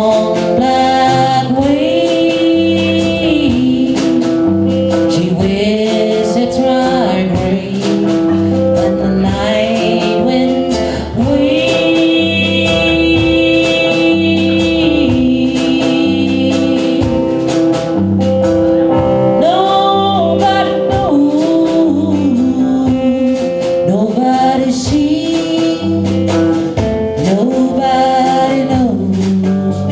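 Live band music: a song with singing over guitar, a walking bass line and a steady beat, playing without a break.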